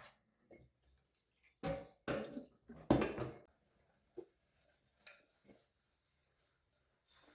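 Kitchen handling sounds: three short noisy scrapes or rustles close together about two to three seconds in, then a few light knocks of utensils or containers.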